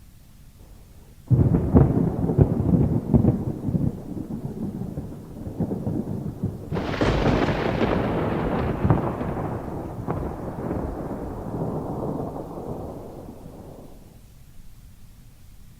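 Thunder: a sudden crackling clap about a second in that rumbles on, then a second, brighter peal about seven seconds in that rolls away and fades out over the next several seconds.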